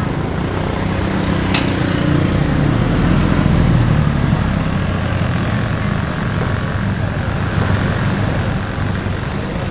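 A motor vehicle's engine running close by, growing louder to a peak about three to four seconds in and then slowly fading, as if passing. There is one sharp click about a second and a half in.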